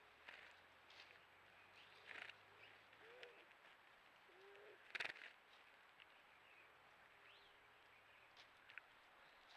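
Faint, low, hollow coos of a juriti (Leptotila dove), two short notes about three and five seconds in, among scattered high chirps of small birds. A sharp click about five seconds in is the loudest sound.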